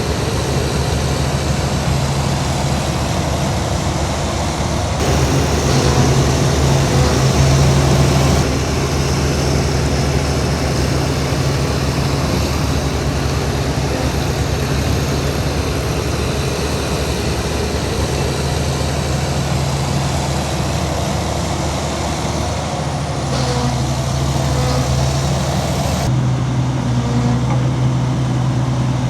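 Heavy diesel engines of earthmoving machines running under load, a steady low drone that gets louder for a few seconds about a fifth of the way in and changes character abruptly several times.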